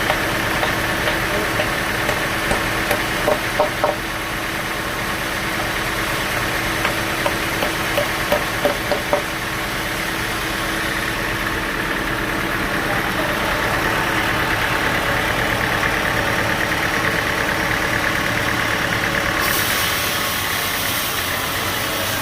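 Bandsaw sawmill machinery running steadily with a constant hum. Two short runs of rapid knocks come a few seconds in and again just before the middle, and the sound grows a little louder through the middle.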